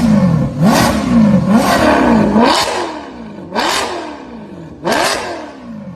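A car engine with a loud exhaust revved in quick throttle blips, about seven times. Each rev shoots up in pitch and falls back, and the later blips are softer and further apart.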